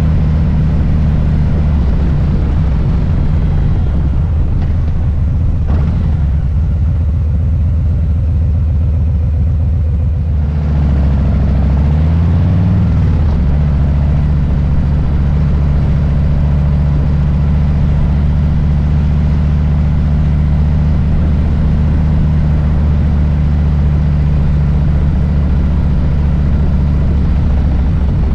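Harley-Davidson Low Rider S's Milwaukee-Eight V-twin engine running on the move with a steady rumble, its note briefly dipping and rising again about ten to thirteen seconds in, as with a change of revs.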